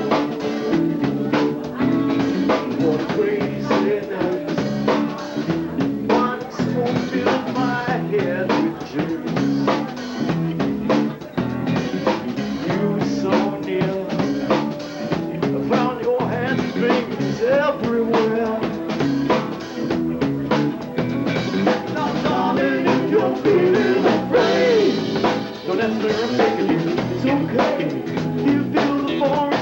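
Rock band playing live, with drum kit and guitars, taped on a mini cassette, so nothing sounds above the middle treble.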